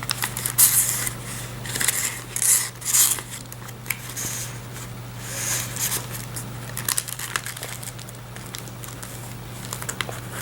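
Paper pages and tags of a handmade junk journal being turned and handled: irregular rustling swishes, several in the first three seconds and more about five to seven seconds in, over a steady low hum.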